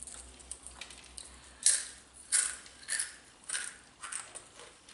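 Hand-cooked potato crisps being crunched while chewed, a run of about five sharp crunches in a steady chewing rhythm starting about a second and a half in.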